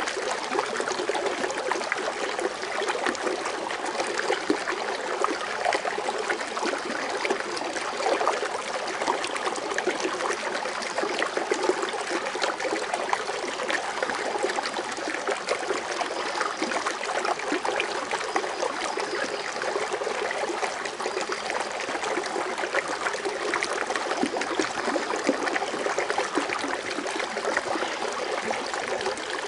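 Water fountain bubbling and splashing steadily into its basin, a continuous trickling patter.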